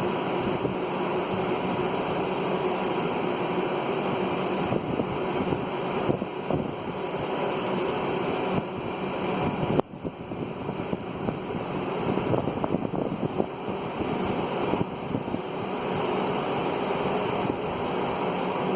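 Steady rushing outdoor noise of wind on a phone microphone during an electrical storm, with a brief drop about ten seconds in.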